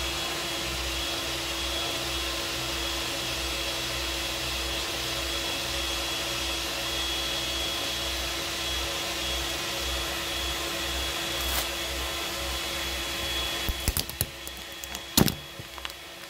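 A steady whirring motor-driven appliance runs and then stops abruptly about fourteen seconds in, followed by a few sharp clicks and a louder knock.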